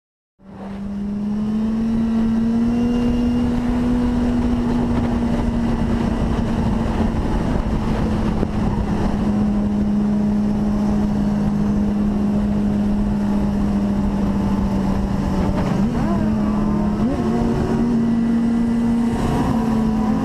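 A motor vehicle engine running steadily with a constant drone over a rumble, cutting in abruptly about half a second in and briefly wavering in pitch near the end.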